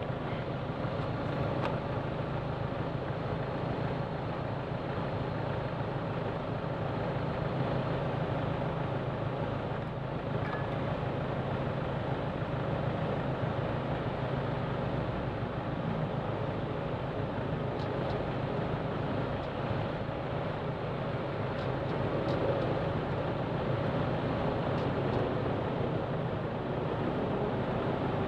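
Honda Click 125 scooter's small single-cylinder engine running steadily while riding, under an even noise of road and wind.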